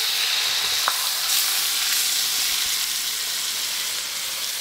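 Pork liver slices, onions and sauce sizzling hard in a hot wok, just poured in from a steel bowl; the sizzle eases off slowly, with a small clink about a second in.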